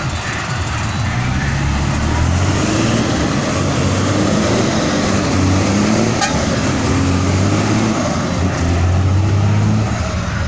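Truck engines running continuously, the engine note rising and falling, over a steady haze of traffic noise.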